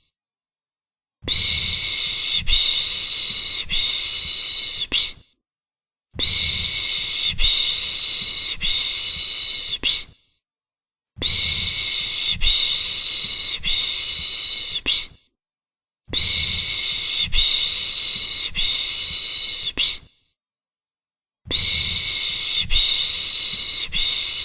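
A person's long shushing 'shhh', the 'piş piş' sound used to soothe a baby to sleep, repeated five times: each shush lasts about four seconds with about a second of silence between them.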